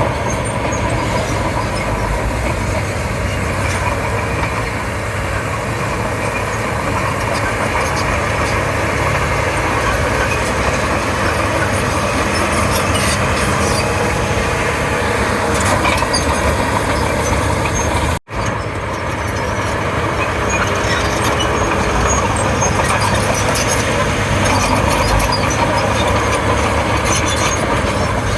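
Crawler bulldozer's diesel engine running steadily under load, with the rattle and clank of its steel tracks. The sound cuts out for an instant about two-thirds of the way in.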